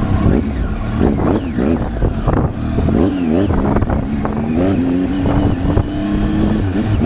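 Triumph Tiger 800's three-cylinder engine running under way, its pitch rising and falling with the throttle, then climbing steadily over the last couple of seconds, with scattered short knocks.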